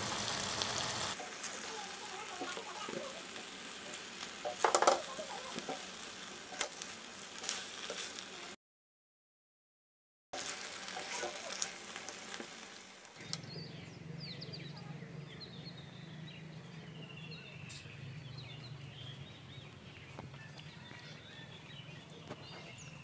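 Fish paturi parcels wrapped in pumpkin leaves sizzling and crackling in hot oil in a pan, with a sharper crackle about five seconds in. The sizzle cuts out to silence for a couple of seconds, returns briefly, and then gives way to a steady low hum with faint chirping over it.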